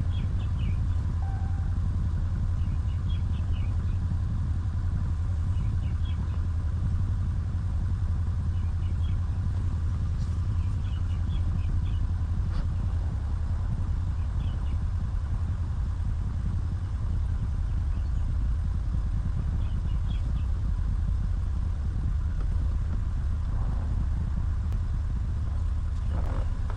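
2019 Ram 1500 pickup's engine idling steadily, a low even rumble, now running after the RF hub module fault was cleared. Faint short high chirps come through every few seconds.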